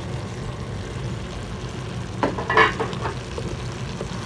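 Tomato-and-onion masala with spice powders sizzling as it fries in a pan, and a brief stirring sound about two and a half seconds in.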